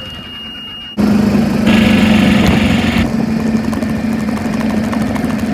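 Golf cart running over bumpy ground: a steady low drone with short knocks and rattles. It comes in loud about a second in, after a quieter stretch.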